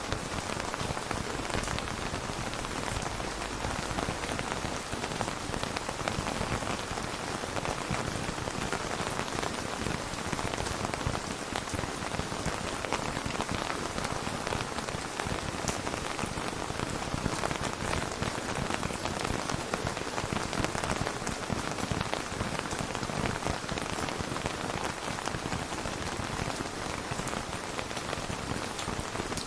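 Steady rain falling on a surface, a dense even patter of many fine drops with no thunder.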